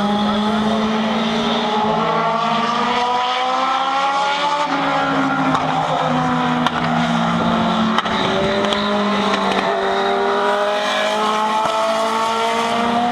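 Several Legend race cars' motorcycle-based engines running together on track. Their pitch climbs repeatedly as the cars accelerate and drops as they lift, the engines overlapping at slightly different pitches.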